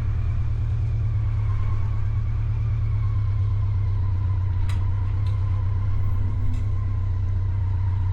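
An engine idling steadily with a low, even drone and a faint whine, with a few light clicks about halfway through.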